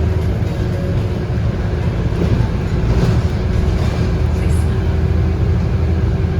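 Scania DC9 8.9-litre five-cylinder diesel of a Scania K230UB bus running steadily, heard from inside the cabin: a deep engine hum with a faint steady whine above it.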